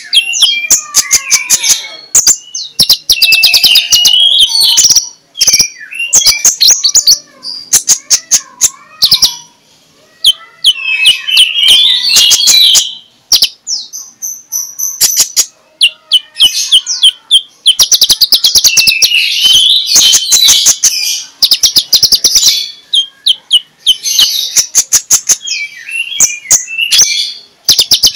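Konin (kolibri ninja) sunbird singing in long, rapid, high-pitched chattering bursts full of sharp ticking notes, with short pauses between phrases. This is the full, open 'ngeplong' song used to lure other konin into singing.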